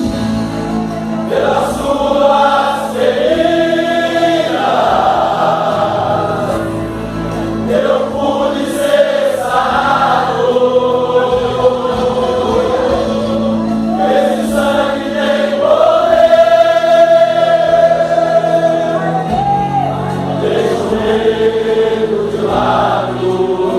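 Men's choir singing a Portuguese gospel hymn in unison, long held notes over instrumental accompaniment.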